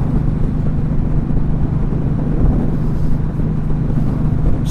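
Indian Scout Sixty's V-twin engine running steadily while the bike is under way, a constant drone over a low wind-and-road rumble.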